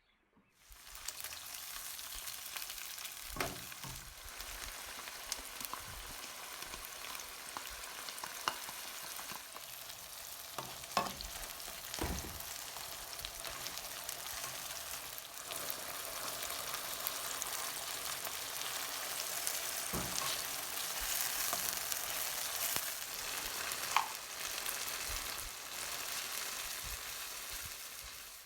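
Food frying in hot oil in a pan, a steady sizzle that starts about a second in and cuts off near the end, with scattered knocks of a utensil against the pan.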